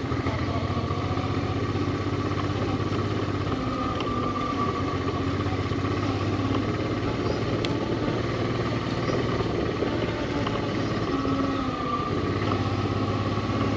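Honda Transalp 650's V-twin engine running at low, steady revs.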